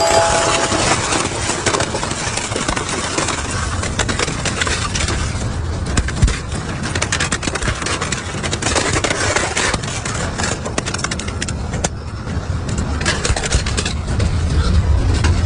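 Industrial double-shaft shredder running under load, its cutters grinding through metal with a low drone and a steady run of sharp cracks and scrapes. There is one heavier bang about six seconds in.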